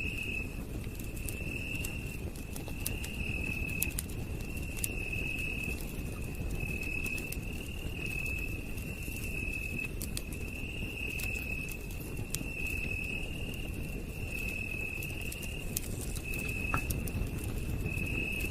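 Campfire crackling with scattered small pops over a low steady rumble, while a night insect trills high and steadily in pulses about a second long, one after another.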